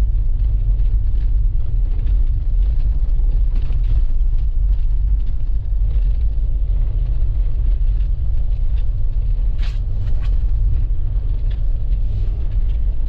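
Steady low rumble of a car driving on a snow-covered road, heard from inside the cabin, with a few faint clicks.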